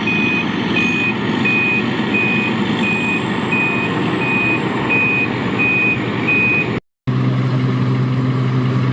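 Isuzu 'Robocop' 210 truck reversing, its reverse alarm beeping steadily about twice a second over the running engine. After a brief cut near the end, only the engine's steady hum remains.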